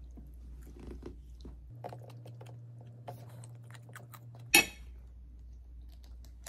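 A person chewing soft boiled asparagus, with small wet mouth clicks and smacks. One loud sharp click comes about four and a half seconds in, over a faint steady hum.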